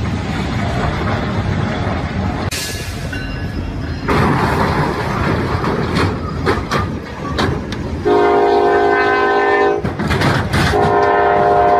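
Freight train rumbling and clanking over a crossing, then two long blasts of a diesel locomotive's horn, the first about eight seconds in and the second near the end.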